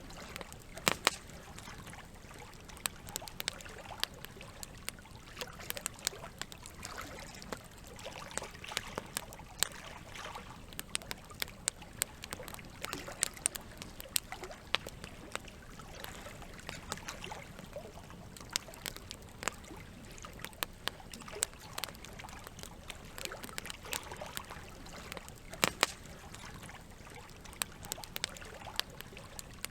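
Campfire crackling, with irregular sharp pops, over a steady trickle of running water.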